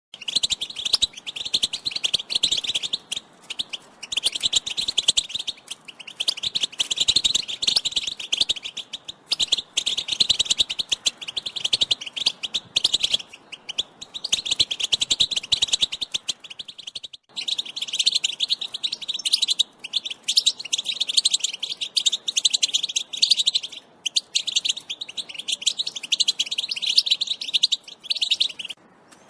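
European goldfinch twittering: a fast, continuous run of high chirps and trills with brief pauses, and a change of recording about seventeen seconds in.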